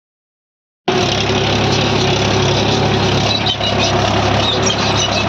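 Tractor's diesel engine running steadily, cutting in suddenly about a second in.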